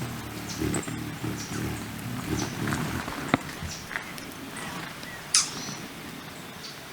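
Hummingbirds at feeders: a low whirring wing hum in the first couple of seconds, with short high chips and squeaky calls throughout, one louder falling squeak about five seconds in. A single sharp click comes about three seconds in.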